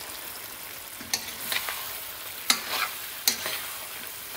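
Chicken pieces sizzling in hot oil in a karahi with peppers and onions, stirred with a metal utensil. A steady frying hiss runs underneath, with about four sharp clanks of metal against the pan.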